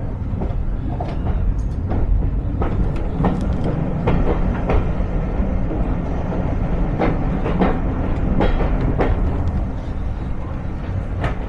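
Railway carriage running along the track, heard from on board: a steady low rumble of wheels on rail with irregular clicks and knocks.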